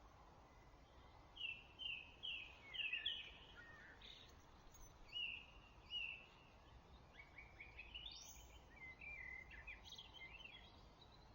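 Songbirds singing in a spring dawn chorus: a quick run of about five repeated chirping notes, two slower notes a few seconds later, then a busier run of mixed notes with one high rising note near the end, over a faint steady hiss.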